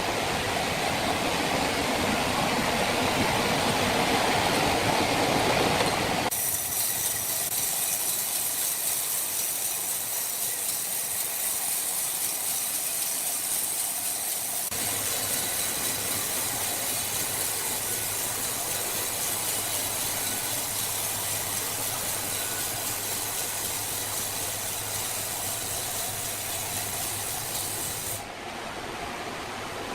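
Sawmill machinery running with a continuous noise. About six seconds in it switches abruptly to a mostly high hiss, and a low hum joins about halfway through.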